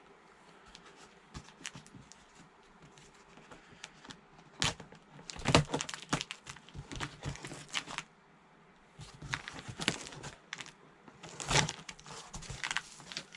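Packaging being opened by hand: crinkling, rustling and tearing in two busy bouts with a short lull about eight seconds in.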